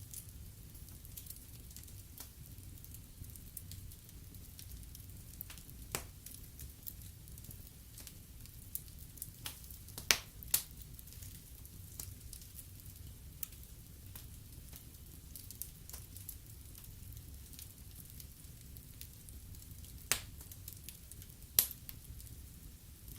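Wood fire burning in a fireplace: a low steady rumble with a faint hiss, broken by scattered sharp crackles and pops. The loudest pops come about ten seconds in and near the end.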